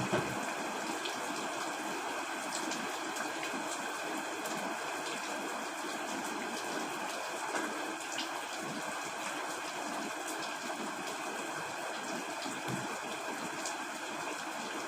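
Steady rain falling on a tent, a constant hiss with scattered sharper drop ticks. A brief louder knock comes right at the start.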